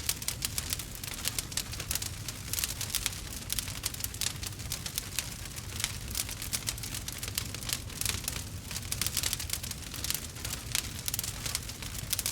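Wood fire burning, with dense, irregular crackles and pops over a low steady rumble of the flames.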